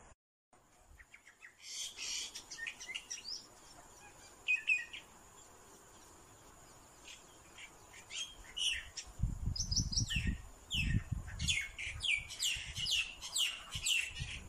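High-pitched bird chirps: short calls sliding downward, scattered at first, then coming thick and fast through the second half. A few low rumbling bumps sound about two-thirds of the way through.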